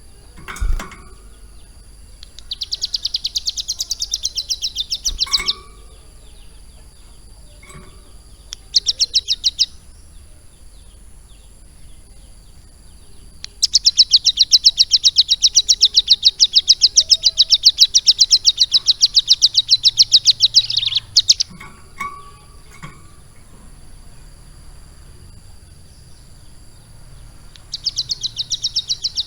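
A ciblek gunung, a small mountain prinia, singing in fast, high, rattling trills: four bursts, the longest about seven seconds in the middle, with a few faint chirps between them.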